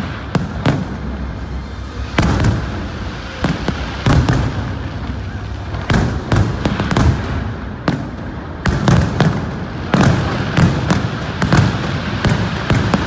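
Fireworks display: a continuing run of sharp bangs and pops from bursting shells, coming in irregular clusters, over a continuous low rumble.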